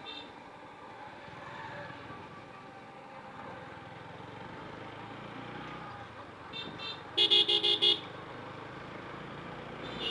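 A vehicle horn beeps in a quick run of about five short toots about seven seconds in, over steady road and engine noise from a moving motorcycle.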